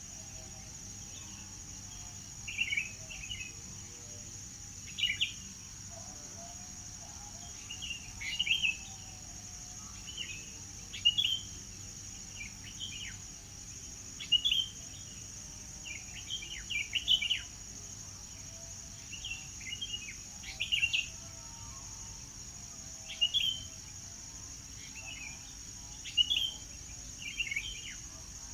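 Songbirds chirping in short phrases, one burst every two to three seconds, over a steady high-pitched drone.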